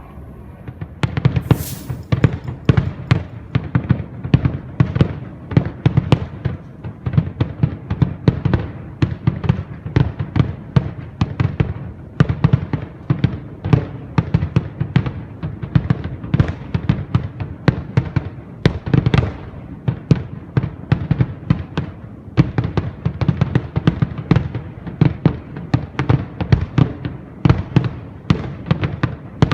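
Aerial fireworks display: a dense, rapid barrage of bangs, several a second, starting about a second in.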